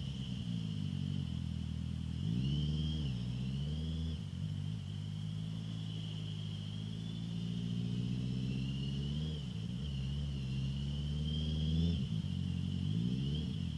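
Honda CBR650F's inline-four engine through an Akrapovic full exhaust while riding, the revs climbing and dropping several times as the throttle opens and closes, with a thin high whine above it.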